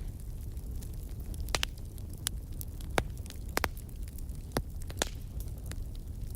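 Wood fire crackling in a fireplace, with irregular sharp pops several times a second over a low, steady rumble.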